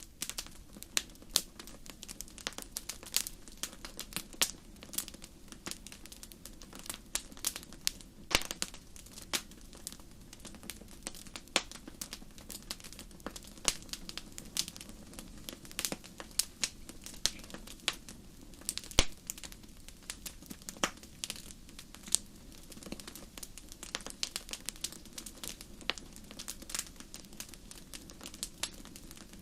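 Wood fire crackling in a fireplace: irregular sharp pops and snaps, several a second, over a low steady rush of flame.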